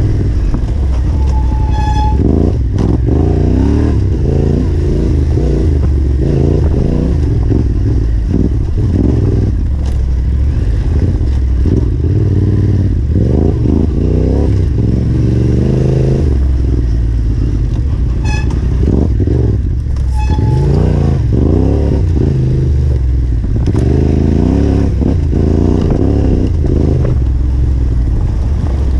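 Yamaha Ténéré 700's parallel-twin engine ridden hard off-road, the revs rising and falling over and over as the throttle is opened and shut. A short high tone sounds twice.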